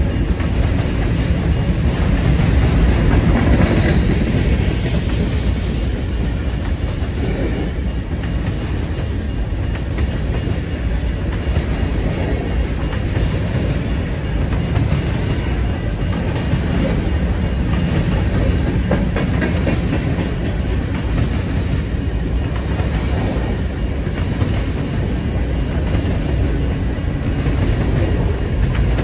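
BNSF freight train passing, a steady loud noise of steel wheels rolling on the rails.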